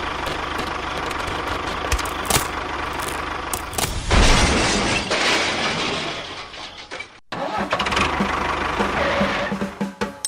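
Engine running steadily, growing louder about four seconds in, then fading. It breaks off abruptly just after seven seconds and starts running again.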